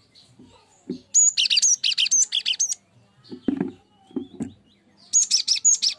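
Cinereous tit (gelatik batu) singing: two bursts of rapid, high repeated chirping notes, one about a second in and one near the end. A few short low thumps fall between them.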